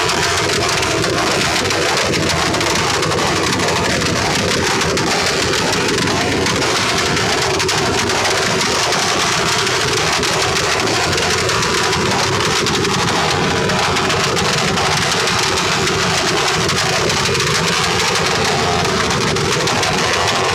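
Motorcycle engines running loud through their exhausts, a dense, steady blare in a contest of exhaust sounds.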